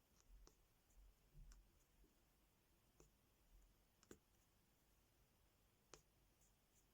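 Faint, small plastic clicks, irregular and spread out, as diamond painting drills are picked up and pressed onto the sticky sticker with the applicator pen.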